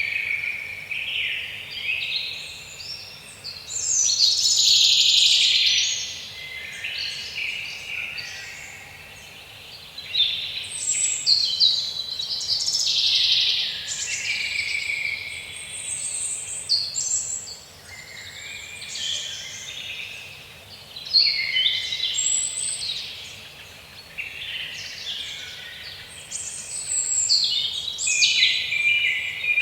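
Woodland birdsong: overlapping chirping and warbling phrases that swell and fade every few seconds, over a faint steady background hiss.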